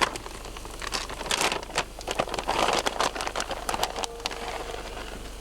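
Omelet frying in a pan, sizzling and crackling with frequent sharp pops, easing off about four seconds in.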